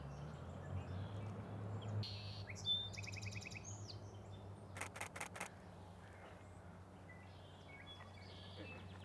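Song sparrow singing a phrase of varied notes with a trill, then a camera shutter firing four times in quick succession, with a few faint bird notes near the end.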